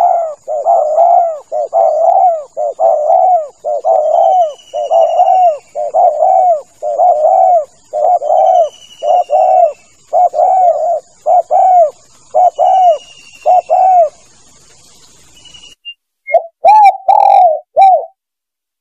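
Spotted dove (tekukur) cooing over and over in a rapid string of coo notes, played as a hunting lure call. The string stops about three-quarters through. A short run of coos with a few clicks follows near the end. Faint high, falling chirps from another bird sound now and then behind it.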